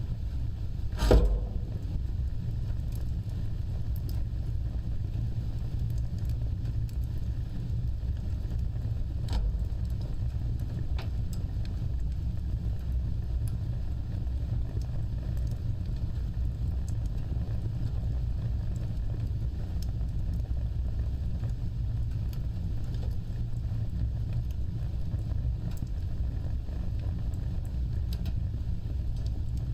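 Wood fire burning with a steady low rumble of flames and scattered faint crackles; a sharp loud pop about a second in and another, weaker, at about nine seconds.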